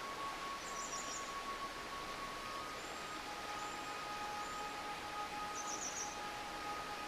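Steady murmur of a forest stream with small birds chirping over it: a quick high trill near the start, a few short high whistles midway, and another trill near the end. Faint steady held tones run underneath.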